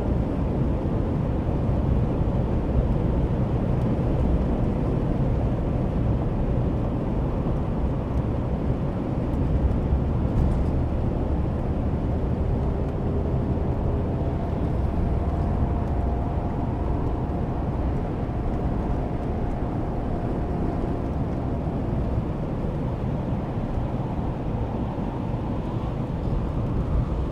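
A vehicle driving along: steady engine and road rumble, with a faint, slowly rising whine partway through.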